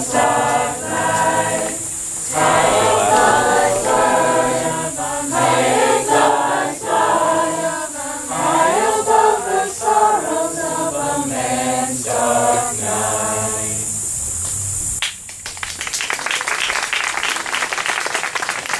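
A group of voices singing a slow round together; the singing stops about 15 seconds in and the group breaks into applause.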